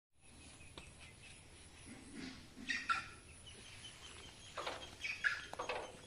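Birds calling: short calls in two clusters, about three seconds in and again near five seconds.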